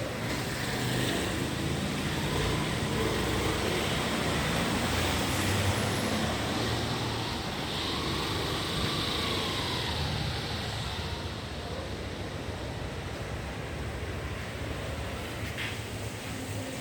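Road vehicle engines and traffic noise running steadily, with one engine note rising and falling about halfway through.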